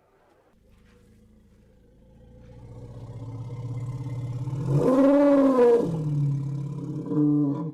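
Elephant vocalising: a low pulsing rumble that swells over a few seconds into a loud roar about five seconds in, arching up and then down in pitch, followed by a shorter call near the end that stops abruptly.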